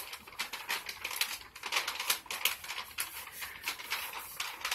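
Drapes being handled and adjusted: a run of irregular light clicks and rustles, like curtain hooks or rings shifting on a rod.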